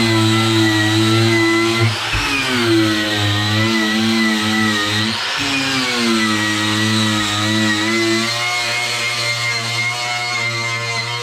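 Handheld electric power tool running steadily, its motor pitch dipping and recovering twice, about two seconds in and again about five seconds in, as it is bogged down against the work.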